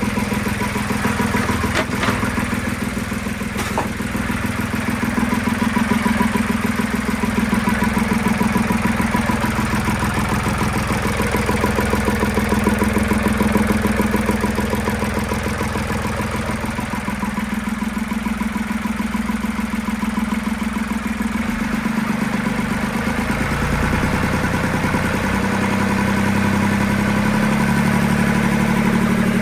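Boat engine running steadily with the throttle raised a little, its repaired water pump pushing cooling water through. The engine note shifts in pitch through the second half, and two sharp clicks sound in the first few seconds.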